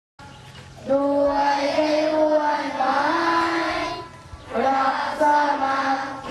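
Young voices singing a slow melody in long held notes, with a short break about four seconds in.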